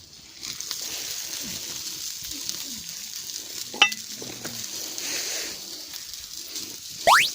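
Food sizzling and frying in a pan as a steady high hiss, with a sharp metallic clink about four seconds in and a quick rising whistle near the end.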